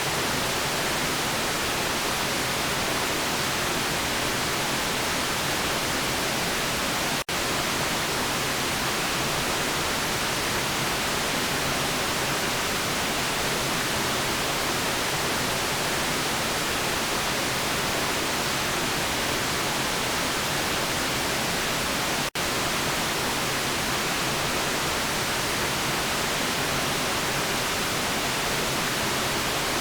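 Steady white noise hiss, even across the whole range, with two momentary dropouts about seven and twenty-two seconds in.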